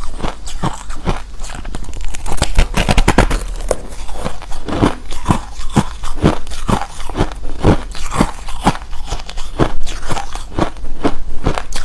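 Close-miked chewing of hard refrozen crushed ice: a steady run of sharp, loud crunches, about two or three a second, with a dense flurry of crunching a couple of seconds in.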